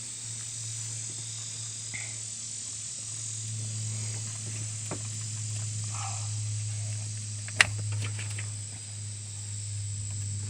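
Insects chirring steadily in a high pitch over a steady low hum, with a few light clicks and one sharp snap about seven and a half seconds in.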